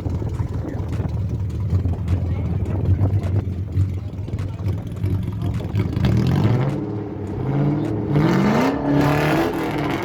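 Car engine running with a steady low note, then revving up about six seconds in, its pitch climbing in steps.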